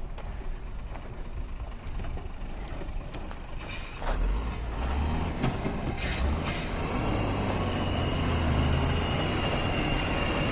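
Heavy truck's diesel engine labouring uphill under load, growing louder about four seconds in. There are two short air hisses around the middle, and a thin steady whistle over the engine in the last few seconds.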